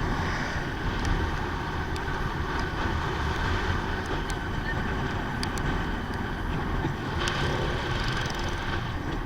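Motorcycle riding along at steady speed: the engine and tyre rumble under a continuous rush of wind on the microphone, with a few faint ticks.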